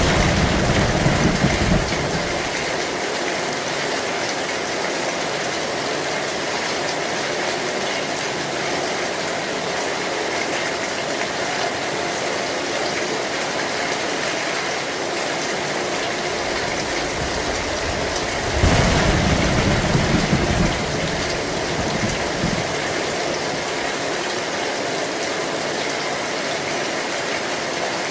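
Heavy rain falling steadily on an old metal zinc roof, with two brief low rumbles of thunder, one at the start and one about two-thirds of the way through.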